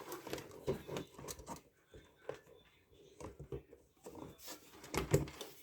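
Irregular light knocks and clicks with some rustling, the loudest a cluster about a second before the end, like parts being handled.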